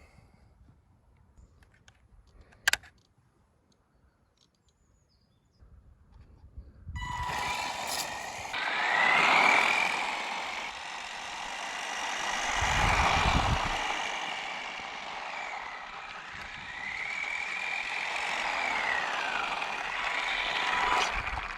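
Quiet at first, with one sharp click about three seconds in. From about seven seconds in, an electric RC monster truck's brushed motor runs hard, its whine rising and falling in pitch as the throttle comes on and off over a steady running noise, with a brief low rumble near the middle.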